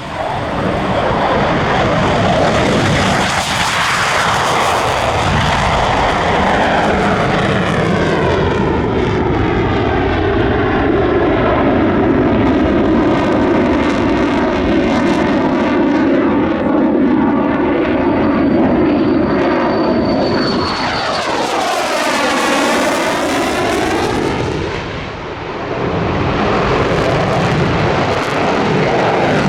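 An RCAF CC-150 Polaris (military Airbus A310) passes low on a flyby, its twin turbofan engines running loudly throughout. A thin high whine comes in about two-thirds of the way through, just before the aircraft passes closest. The sound dips briefly after the pass and then swells again.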